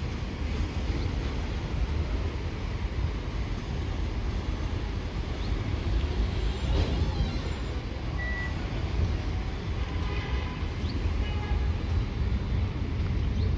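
Steady low rumble of a train at a station, with a few faint brief tones about eight and eleven seconds in.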